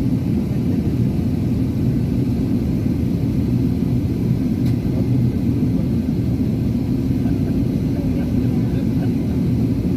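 Airbus A380-800 passenger-cabin noise: a steady low rumble of engines and airflow heard from inside the cabin.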